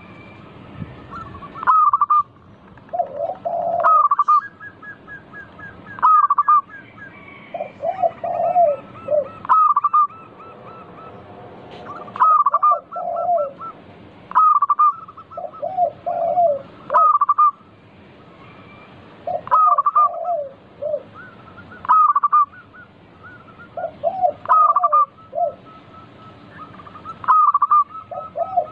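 Zebra dove (perkutut) singing its repeated cooing song. Each phrase is a few low coos followed by a louder, higher note, and it comes about every two seconds throughout.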